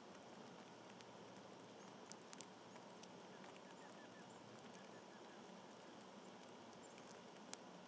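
Near silence: faint outdoor background hiss with a few light ticks about two seconds in and one near the end.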